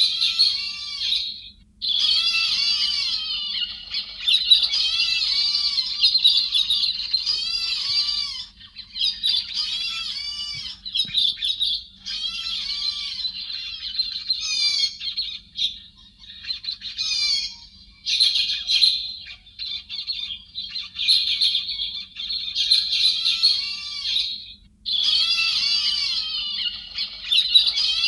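Recorded song of the héc xoan bird: bouts of fast, looping, chattering warbles lasting several seconds, with brief pauses between them. It is a lure call played to draw in wild birds of the same kind.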